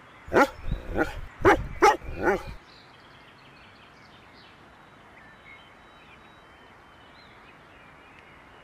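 A dog barking five times in quick succession, loud and sharp, within the first two and a half seconds.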